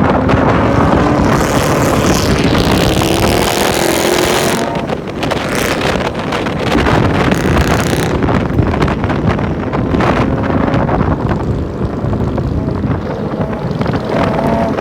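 Loud car engine running, its pitch rising slowly a couple of seconds in, with wind buffeting the microphone.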